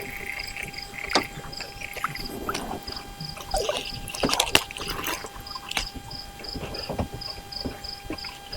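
An insect, cricket-like, chirping steadily about twice a second, with several sharp knocks and rustles of a small just-caught sunfish being handled aboard an aluminum boat.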